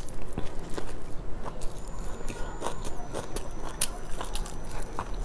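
Close-miked eating on a lapel microphone: biting into and chewing a burger, with irregular small mouth clicks.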